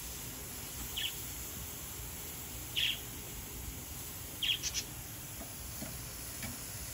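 A few short, high bird chirps, one about a second in, one near three seconds and a quick cluster of three just past the middle, over a steady low background noise.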